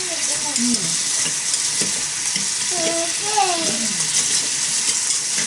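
Food frying and sizzling in a small iron pot over a mini fire stand, a steady hiss. Several short, falling, whistle-like tones sound over it.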